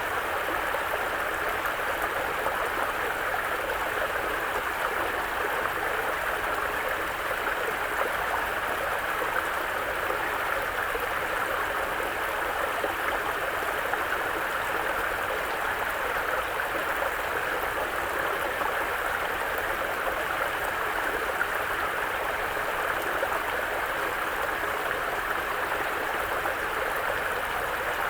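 Mountain brook flowing: a steady, even rush of running water.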